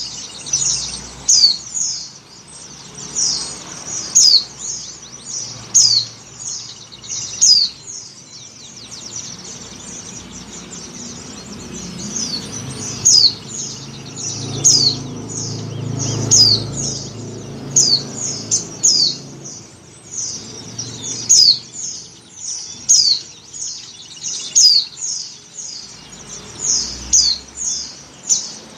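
White-eye (pleci) calling: quick series of short, high chirps, each falling in pitch, coming in clusters with a sparser stretch in the middle. It is a female's breeding-condition call used to lure males. A low background rumble rises and fades in the middle.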